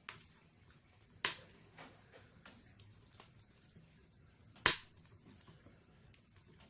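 Wood fire crackling in a fireplace: scattered faint crackles, with two sharp, loud pops from the burning logs, one just over a second in and one near the end.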